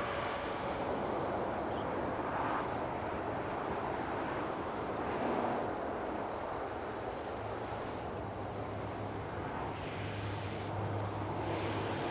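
Electric-locomotive-hauled freight train running by, giving a steady rumble and rushing noise, with a low steady hum joining in about seven seconds in.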